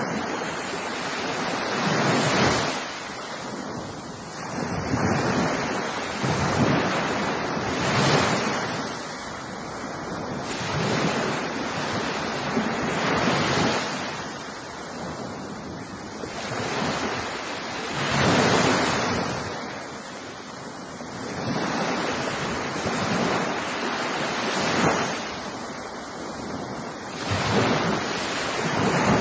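Ocean surf: waves breaking and washing in, the rush of water swelling and falling back every two to four seconds.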